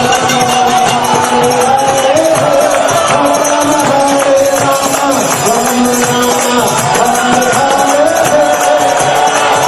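Temple devotional music, kirtan style: held melodic lines over a steady, dense beat of percussion.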